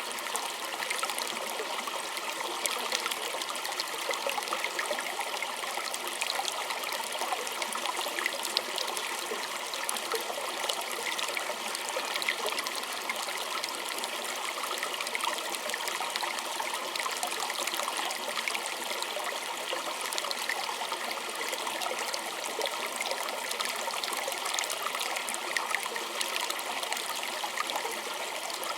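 Small creek trickling and splashing steadily over stones, a continuous wash with many small bright splashes and droplets.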